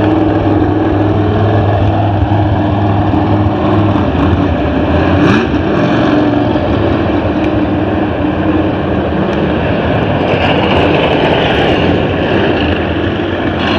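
Race car engines running steadily, with a brief change in pitch about five seconds in.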